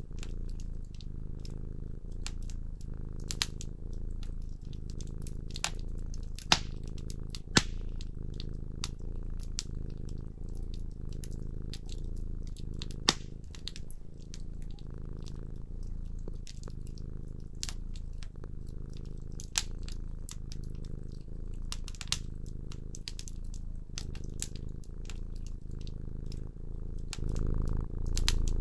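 A cat purring steadily, a low pulsing rumble that swells slightly near the end, with the crackle of a wood fire in a fireplace: scattered small clicks and a few sharp pops.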